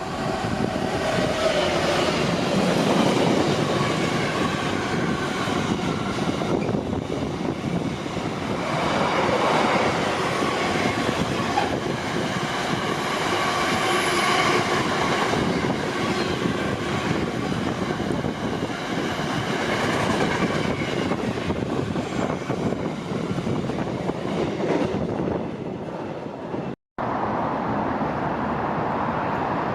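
Freight train passing, its wagons rolling over the rails with a continuous rumble and steady high ringing tones from the wheels. The sound cuts out for an instant near the end, then carries on.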